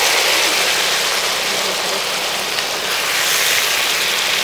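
Lamb pieces and onions sizzling steadily in hot oil in a large black iron kadai.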